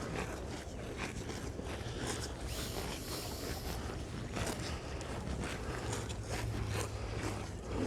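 Cattle grazing at close range: repeated short ripping sounds as the cows tear grass. A low steady hum runs underneath.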